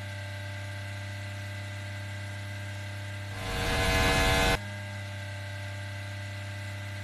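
A steady, unchanging mechanical drone. About three and a half seconds in, a loud rushing noise swells for about a second and then cuts off abruptly.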